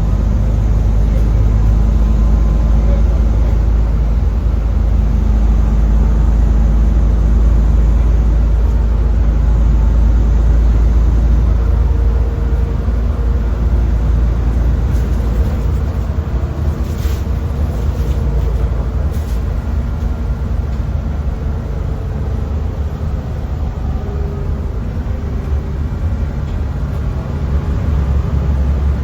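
Route bus driving: a steady low engine and road rumble that eases off somewhat about halfway through.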